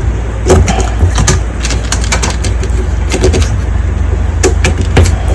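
Irregular plastic clicks and knocks as the wiring connector is fitted to a new door lock on a front-loading washing machine, over a steady low hum.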